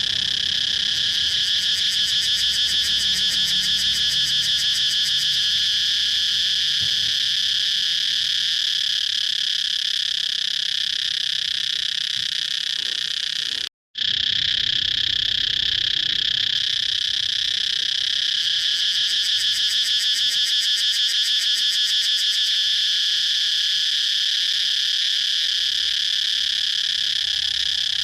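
Cicadas calling in a continuous, steady high-pitched buzz with a fast pulsing texture. It cuts out for a split second about halfway through.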